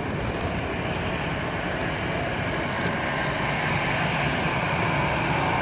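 Steady rushing noise of a vehicle running, starting abruptly at the very beginning.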